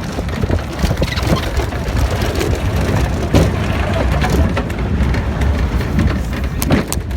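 Car driving at speed: a steady low engine and road rumble with frequent knocks and rattles.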